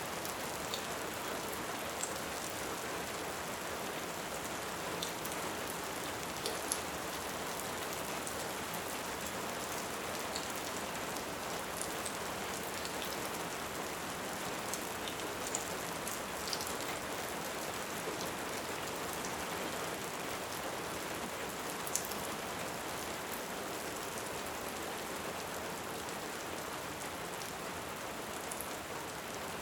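Steady, even rain, mixed with scattered sharp crackles from a wood fire.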